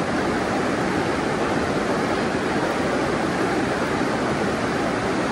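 Steady rush of flowing creek water, an even noise.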